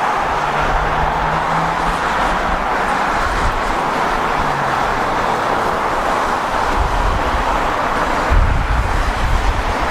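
Car driving on the road: steady road and engine noise, with a low engine hum that fades about five seconds in and heavier low rumbling near the end.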